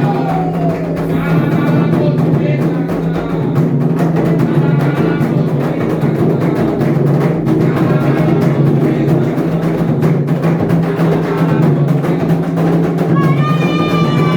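Candomblé atabaque drums playing a steady rhythm, with sung voices heard near the start and again near the end.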